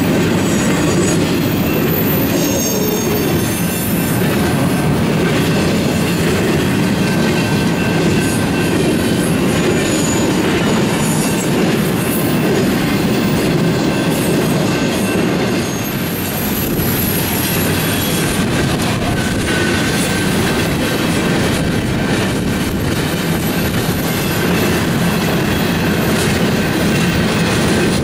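Freight train cars rolling steadily past, steel wheels running on the rail with a continuous rumble and thin, high wheel squeals drifting in and out.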